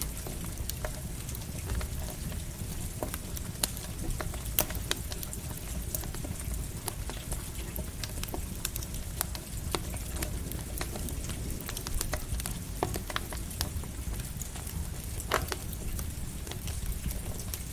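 Campfire crackling with light rain falling: scattered sharp pops and snaps over a steady low rumble and hiss.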